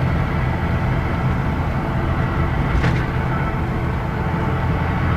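Scania K113 city bus's diesel engine running steadily under way, a low drone heard from on board, with a short hiss a little past the middle.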